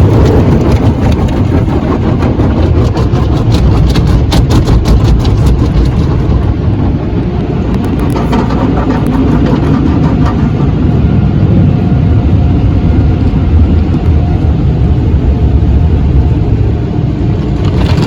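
Automatic tunnel car wash heard from inside the truck's cabin: a loud steady rumble of the wash machinery, with rapid slapping of the spinning brushes against the windows and body for roughly the first six seconds, then a steadier wash.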